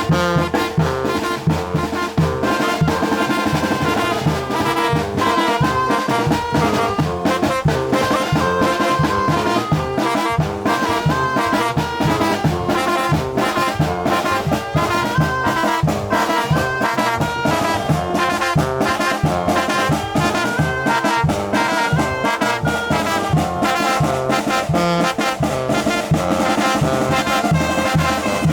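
Mexican brass band playing a chilena, with trumpets and trombones carrying the melody over a steady percussion beat.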